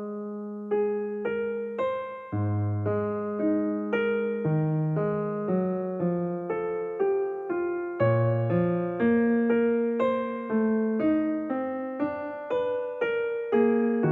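Background music: a solo piano piece, a steady run of struck single notes over sustained chords.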